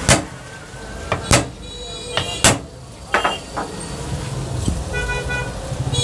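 About five sharp knocks in the first four seconds, over a steady rumble of street traffic. A vehicle horn sounds briefly near the end.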